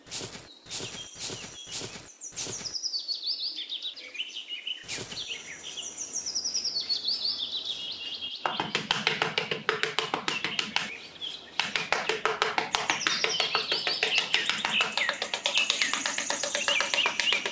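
Small birds chirping in runs of quick notes that fall in pitch, over repeated scraping and tapping of a small hand trowel digging and scooping sand.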